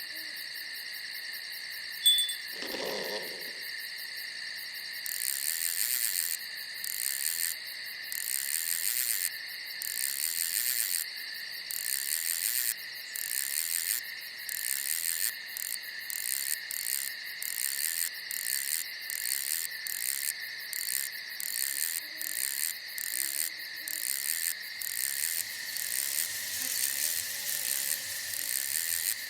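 Night insects, crickets, trilling steadily; from about five seconds in a louder, high chirping comes in pulses roughly once a second. About two seconds in there is a sharp click followed by a brief low sound.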